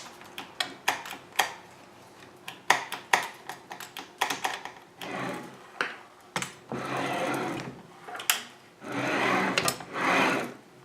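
Chicago Electric 10-inch sliding miter saw being handled: a series of clicks and knocks, then three short whirring runs of about a second each in the second half, each swelling and fading.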